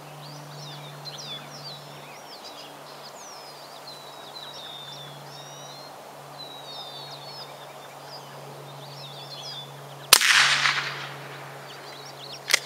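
Birds chirping over a steady low hum, then one loud sharp bang about ten seconds in, with a noisy tail dying away over about a second.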